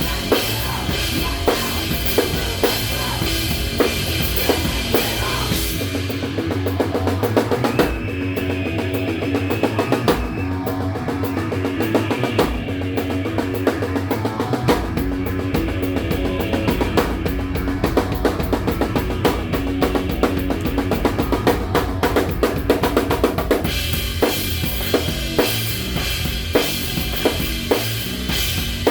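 A live rock band playing loud, with the drum kit's bass drum and snare driving throughout. For most of the middle the cymbals drop away under a repeating riff, and the full kit with cymbals comes back in near the end.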